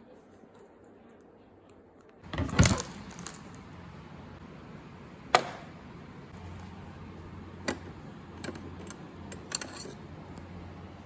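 Pet bird moving about its cage: a short rattling clatter about two seconds in, then scattered sharp clicks and taps, over a faint steady hum.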